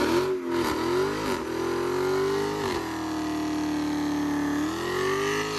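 Supercharged Hellcat HEMI V8 accelerating hard. The engine note climbs, drops sharply at an upshift about two and a half seconds in, holds steady, then climbs again near the end.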